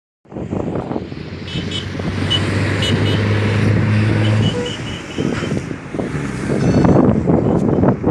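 Highway traffic passing close by, with a heavy vehicle's engine droning for a couple of seconds mid-way and a few short high horn beeps.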